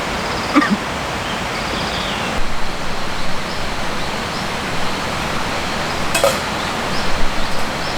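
Steady rushing outdoor noise, with a brief knock about half a second in and another about six seconds in, and faint high chirps over it.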